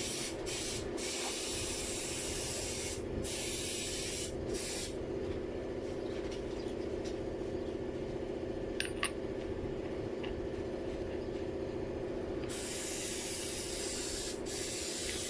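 Graco 395 airless paint sprayer running: a steady hum from the machine, with the hiss of the spray over it. The hiss breaks off briefly a few times, then stops from about five seconds in and comes back near twelve seconds.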